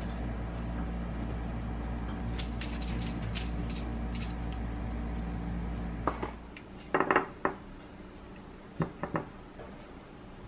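Light metallic clinks from a stainless-steel mesh strainer of drained tofu noodles being handled, over a steady low hum. After that, a few short knocks and taps as cherry tomatoes are handled.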